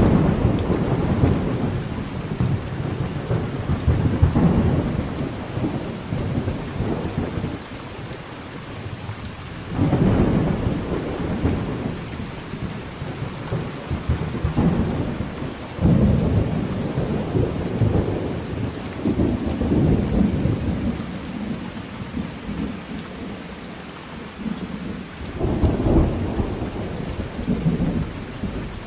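Thunderstorm recording: steady rain with rolling thunder, several loud rumbles that break in suddenly and die away over a few seconds, one near the start, one about ten seconds in, one at about sixteen seconds and one near the end.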